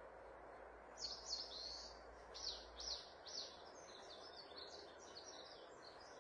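A songbird singing a run of quick, high, downward-sweeping notes, starting about a second in and loudest in its first two seconds, over steady background noise.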